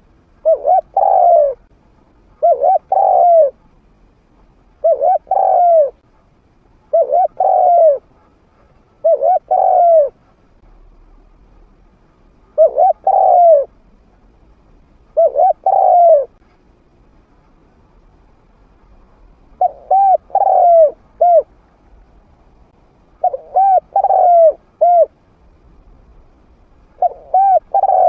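Spotted dove cooing, a trained call bird with a medium-pitched voice: short phrases of two or three coos repeated about every two seconds, the later phrases ending with an extra short note.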